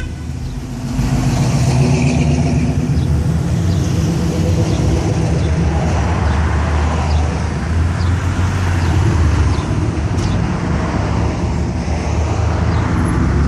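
Classic cars cruising slowly past, their engines running with a steady low rumble over road noise.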